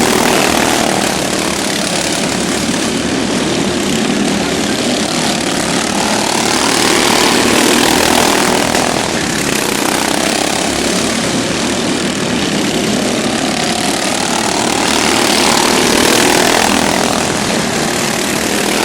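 Engines of modified racing riding lawn mowers running hard around an oval track, swelling and fading as the pack passes about every eight seconds, with the engine pitch sweeping up and down on each pass.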